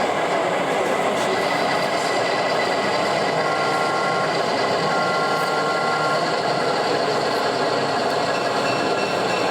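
Steady background hubbub of a model railway exhibition hall, with a model train running on the layout.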